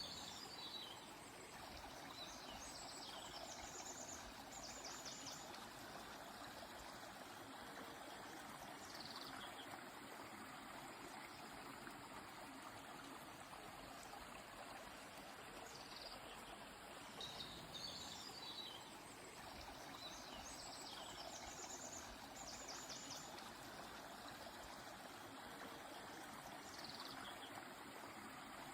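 A river flowing with a steady rush of water, and birds calling over it now and then: short falling calls and a few runs of quick, high repeated notes.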